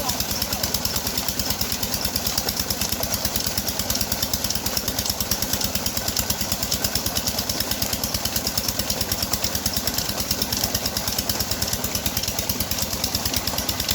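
Petter stationary diesel engine running steadily, a rapid, even chugging beat.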